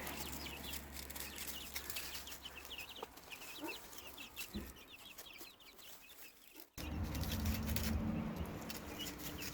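Chickens clucking, with many short high chirps throughout. About two-thirds of the way in the background changes abruptly and a steady low hum starts.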